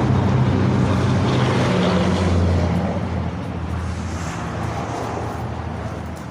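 A motor vehicle engine running with a low, steady rumble that fades about halfway through.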